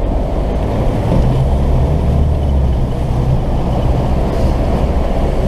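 Diesel 4x4's engine running under steady load as the truck wades through a deep, flowing ford, with water rushing and splashing against it.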